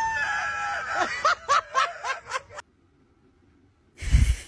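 A high-pitched voice holds a shriek, then breaks into a string of short, quick laughs. A heavy thump comes near the end.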